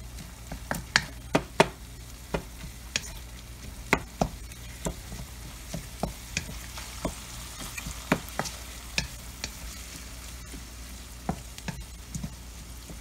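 Ground pork and onion sizzling in a wok while a wooden spatula stirs them. The spatula knocks and scrapes against the pan in irregular sharp clicks over the steady sizzle.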